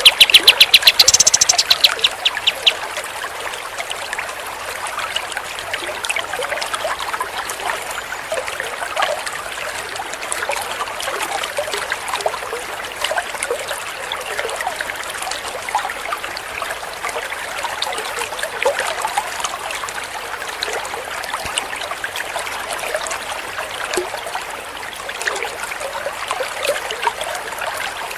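A pied triller's rapid, loud trill of repeated high notes for the first two to three seconds, then a steady trickle of running water.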